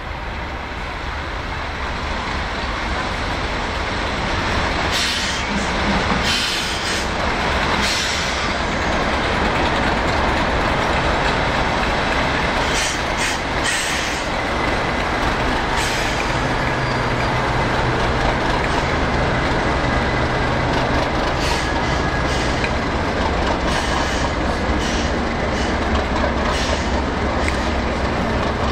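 A train running past on the rails, a steady rumble of wheels with sharp clicks as they pass over rail joints, and a low steady hum joining in about halfway through.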